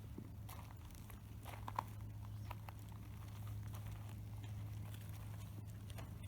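A steady low hum, with scattered faint ticks and taps and one sharper tap about two seconds in.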